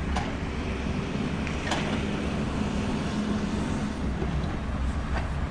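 Scania S650's V8 diesel engine running steadily under way, heard as a low drone inside the truck's cab, with a few faint clicks.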